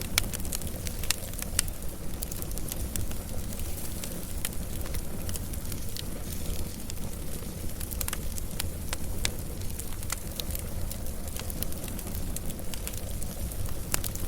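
Wood fire crackling, with many sharp, irregular snaps over a steady low rumble.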